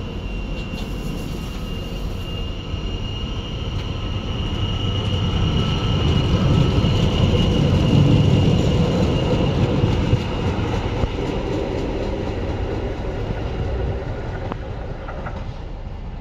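Tyne & Wear Metrocar electric train pulling out and running past along the platform: wheel rumble with a steady high whine, loudest about eight seconds in as the cars pass close, then easing off.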